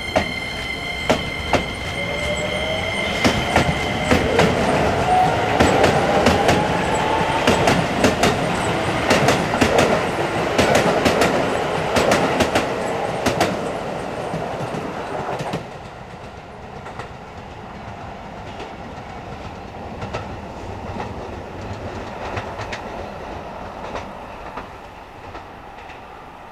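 Electric commuter train pulling out of a station: the inverter whine rises in pitch as it accelerates, over wheels clicking across rail joints. It grows louder, then drops away sharply about fifteen seconds in, leaving quieter train rumble.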